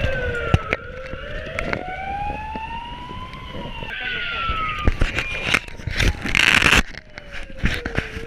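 Fire engine siren wailing, its pitch sliding slowly down and up over a few seconds, with a short burst of hiss and a few knocks about six seconds in.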